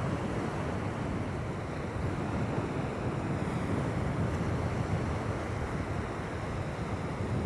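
Steady wind and surf noise at the shoreline, a low, even rush with wind buffeting the microphone.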